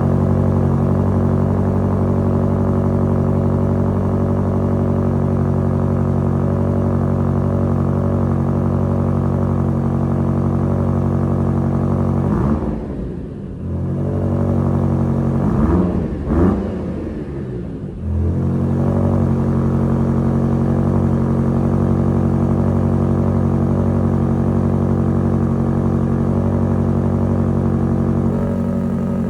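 Range Rover Sport SV's twin-turbo V8 idling steadily through its exhaust. About twelve seconds in, the revs dip and rise and the engine gives two quick throttle blips before settling back to a steady idle.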